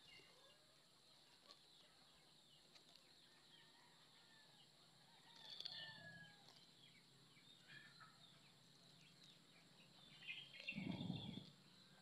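Faint outdoor background with a few short, high bird calls, and a brief louder call just before the end.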